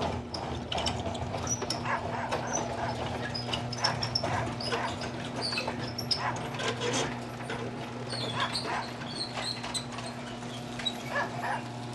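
A garage door rising on its opener, a steady electric hum that stops near the end, with dogs whimpering and yipping over it.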